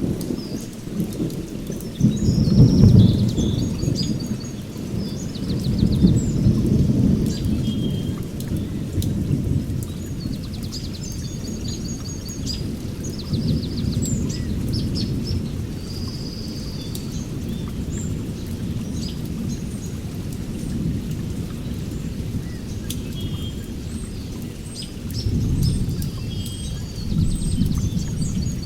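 Thunder rumbling in long, rolling swells, loudest about two to four seconds in and building again near the end, over rain, while songbirds chirp and trill throughout.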